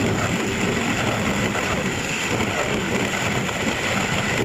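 Steady vehicle engine and road noise, a continuous loud rumble that cuts off suddenly at the end.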